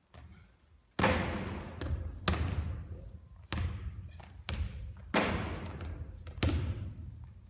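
Basketball bouncing on a court, each hit echoing off the hall. Several sharp bounces come at uneven intervals of about a second, starting about a second in.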